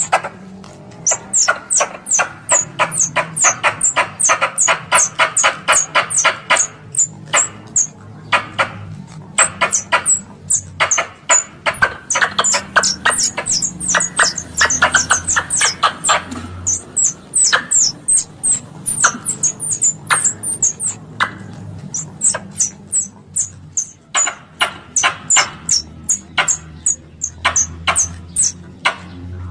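Squirrel lure call of a coconut (plantain) squirrel: runs of sharp, high, downward chips and fast chattering trills, repeated over and over, over a steady low hum.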